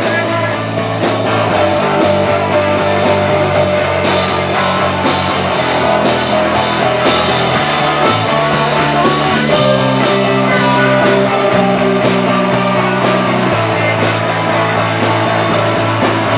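Live rock band playing an instrumental passage: electric guitars, bass and drums with a steady beat, the bass moving through held notes every couple of seconds.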